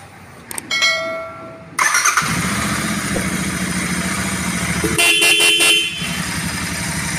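Royal Enfield Continental motorcycle engine starting about two seconds in after a short whine, then idling with an even, pulsing beat. Its horn sounds for about a second near the end.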